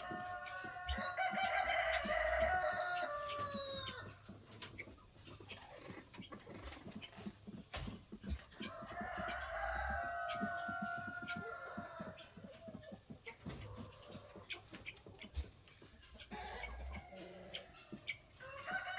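Roosters crowing: one long crow about a second in, another about eight seconds in, and a third starting near the end, with scattered light clicks and knocks between them.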